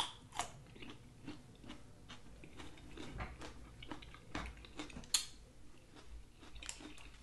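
Close-miked chewing of a raw carrot stick: wet mouth sounds with scattered crisp crunches and clicks, a sharper snap shortly after the start and another about five seconds in.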